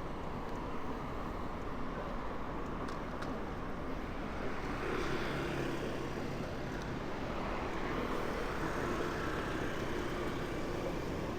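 Steady road traffic noise: engines of motor vehicles running and passing, with a constant rush of road noise.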